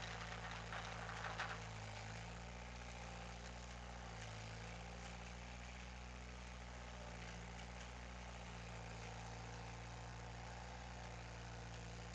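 Skid steer engine running steadily at idle, dipping briefly in pitch about two seconds in and again about four seconds in.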